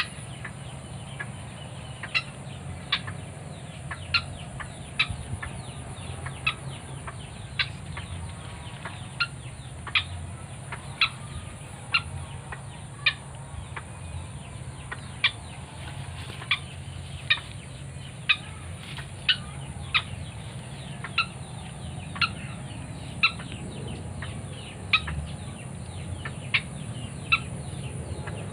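White-breasted waterhen calling, a short sharp note repeated about once a second without a break, over a steady high-pitched whine.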